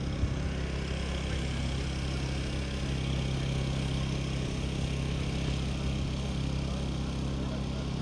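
An engine idling steadily, a low even hum with no revving.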